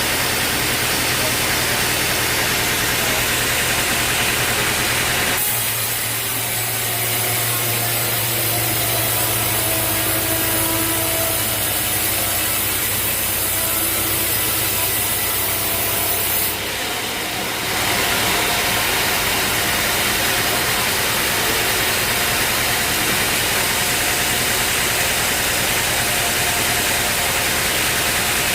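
Sawmill running steadily, its motor humming under the noise of the saw cutting through a log. The sound changes abruptly about five seconds in and again a little past the middle.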